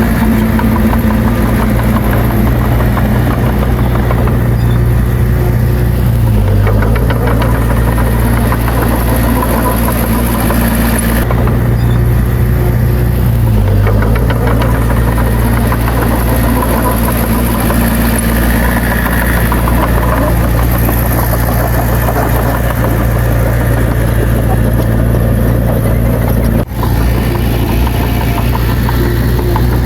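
Heavy diesel engine of a working bulldozer running steadily at high level, its pitch dipping briefly twice, at about six and about fourteen seconds in, as if pulling down under load. A momentary break in the sound comes near the end.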